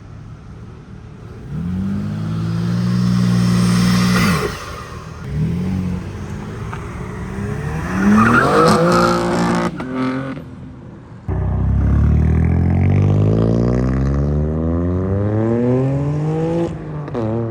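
Car engines revving in short blips. About eleven seconds in, a car accelerates hard, its engine note climbing steadily for about five seconds, then dropping at a gear change and climbing again.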